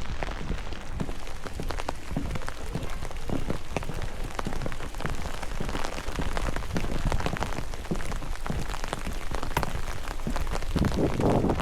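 Steady rain, with many drops ticking irregularly on nearby surfaces over a low, steady rumble; a louder, duller patch comes near the end.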